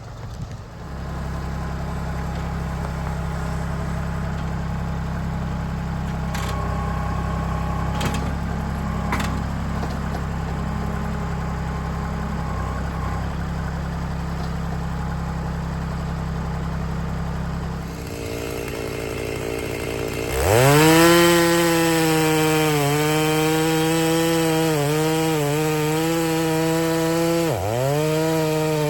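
A compact tractor's diesel engine runs steadily. About 20 seconds in, a Stihl chainsaw, an MS-290 converted to MS-390, starts up loudly at full throttle, its pitch dipping several times as it bogs into the wood.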